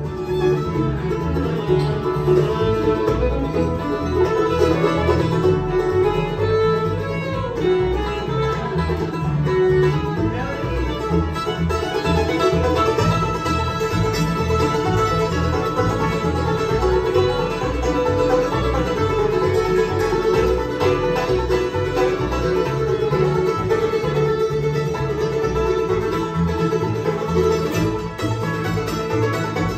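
Bluegrass band playing live, banjo and guitar picking over a steady bass rhythm, with a bowed fiddle line.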